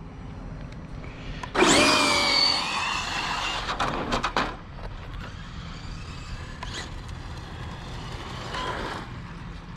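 Losi 22S RC drag car running flat out: the brushless motor's high whine with tyre noise starts suddenly and drops in pitch at first, then fades out about three seconds later.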